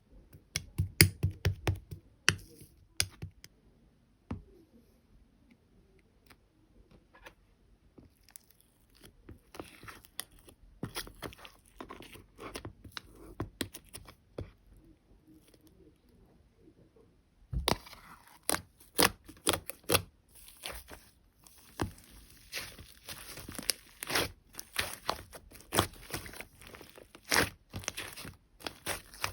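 Sticky purple slime being squeezed and stretched by hand, giving short crackles, clicks and squelches. They come sparse and quieter at first, then turn dense and louder a little past halfway.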